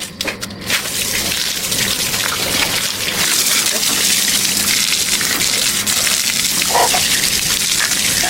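A steady gushing hiss of spraying water, growing brighter about three seconds in, over a faint steady hum.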